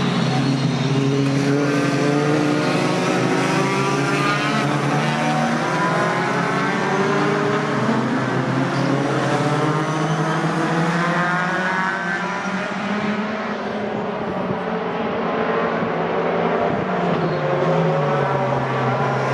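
Racing pickup truck engines revving and passing, several at once, their pitches rising and falling over one another, over a steady low drone.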